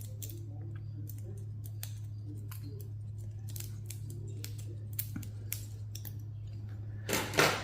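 Small scattered clicks and snips of hand tools working components off a server circuit board, over a steady low hum, with one louder snap near the end.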